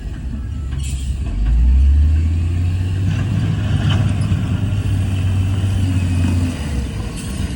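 Heavy diesel engine of earthmoving machinery running, a deep steady rumble that swells about a second and a half in, with a few faint clanks over it.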